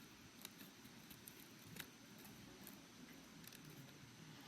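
Near silence: faint outdoor background with a couple of faint small clicks.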